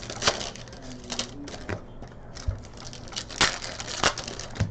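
Trading-card packs and cards being handled: irregular crinkles of foil wrapper and sharp clicks of cards, about half a dozen louder snaps among them.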